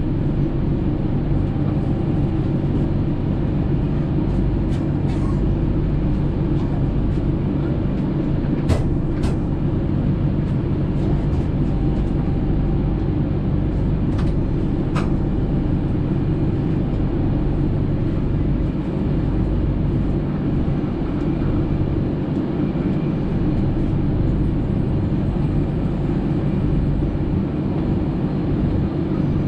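Passenger train running along the track: a steady low rumble and drone, with a few sharp clicks, two close together about a third of the way through and two more about halfway.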